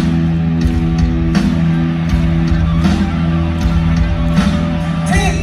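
Live rock band playing an instrumental passage, with electric guitar over bass and drums keeping a steady beat.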